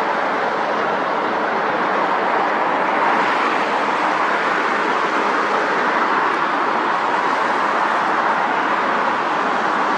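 Jet airliner engines heard from a distance as a steady rushing noise.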